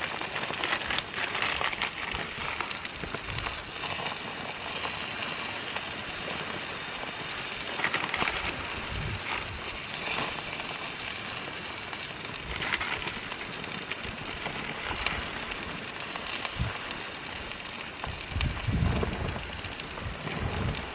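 Burger patties sizzling and crackling on a hot grill, a steady hiss with scattered pops. A few low thumps come near the end.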